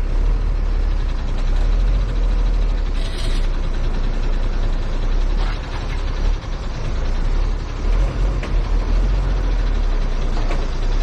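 Heavy truck engine running steadily with a deep low rumble, with a short air hiss about three seconds in.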